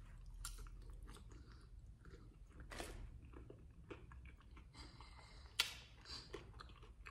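Faint chewing of a forkful of cheese-covered fries, with small scattered mouth clicks and one sharper click a little past halfway.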